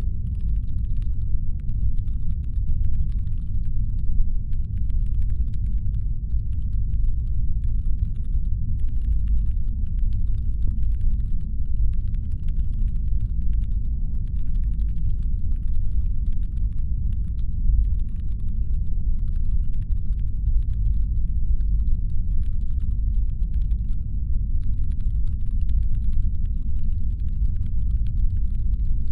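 Deep, steady brown-noise rumble standing in for a spaceship's engine hum. A faint, dense crackle of fine ticks runs over it.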